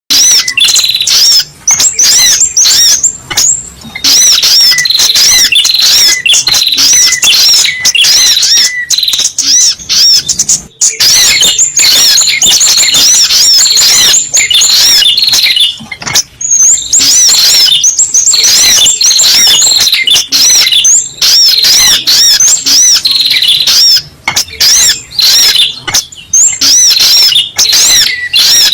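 Sogok ontong (spiderhunter) lure call: loud, rapid, high-pitched chirping notes repeated almost without pause, with a couple of brief breaks.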